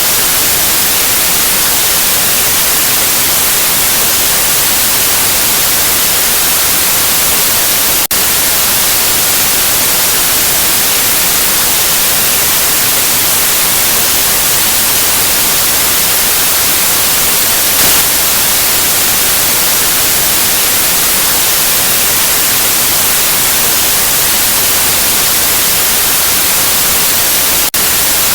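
Steady white noise, a loud even hiss across the whole range that is brightest in the highs. It dips for an instant twice, about eight seconds in and near the end.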